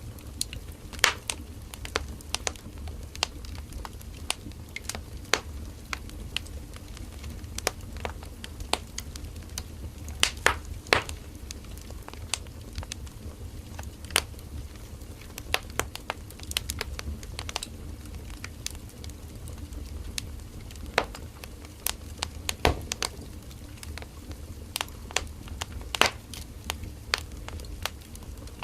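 Firewood burning in a campfire, crackling and popping with irregular sharp snaps over a steady low rumble of the flames.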